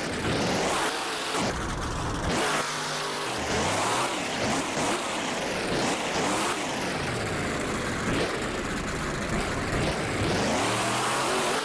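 A truck engine revving hard over and over, its pitch sweeping up and falling back every second or two, over a loud, dense roar.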